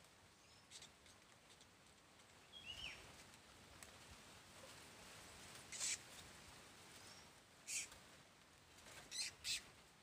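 Short, high chirps and squeaks of a small bird, about half a dozen spread through, one of them a quick falling chirp.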